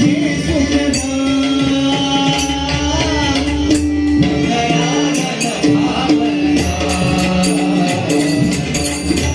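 Marathi abhang bhajan music: a held steady tone under a voice gliding in pitch, with drum and jingling hand-cymbal percussion keeping a steady beat.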